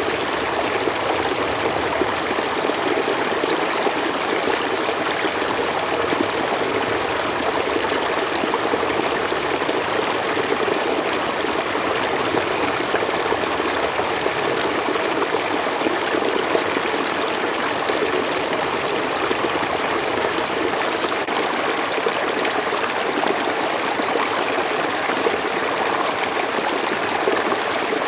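A river flowing steadily over rocks, a continuous rushing and trickling of water.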